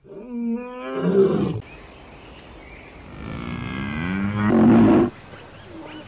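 Male lion roaring: a short call at the start, then a longer one that swells to the loudest point and cuts off suddenly about five seconds in.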